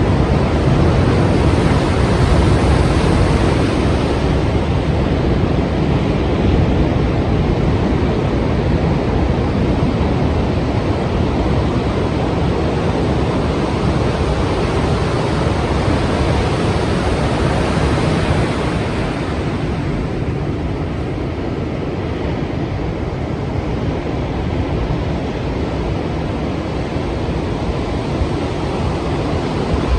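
Strong sea waves breaking in a continuous rushing surf. The surge eases and softens about two-thirds of the way through.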